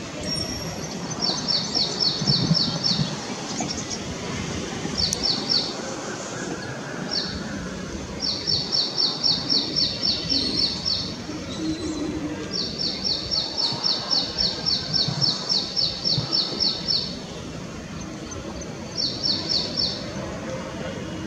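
A bird giving repeated trills of high, evenly spaced notes, about four or five a second, in bouts of one to four seconds with short gaps between, over steady background noise.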